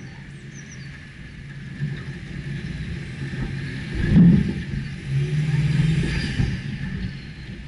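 Subaru Forester's flat-four boxer engine running as the car drives over rough, muddy ground, with a loud thump about four seconds in and the engine pulling harder for a second or two after it.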